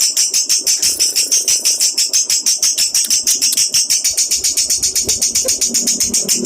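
Lovebird chattering in a continuous rapid stream of high chirps, about ten a second, without a break.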